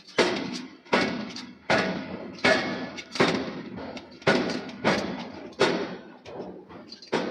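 Heavy hammer blows striking a steel billet being forged, about eight evenly spaced strikes, a little more than one a second, each ringing briefly.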